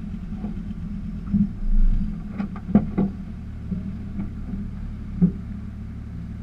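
Drift car's engine idling steadily, heard from inside the cabin, with a few short knocks and clicks.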